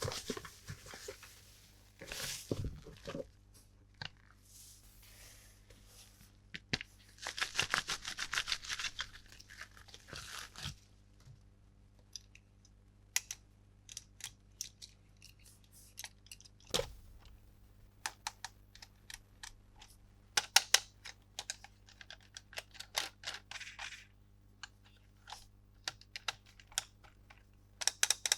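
Toy packaging being torn open and handled: several spells of tearing and rustling, with many small sharp clicks and taps of plastic pieces between them.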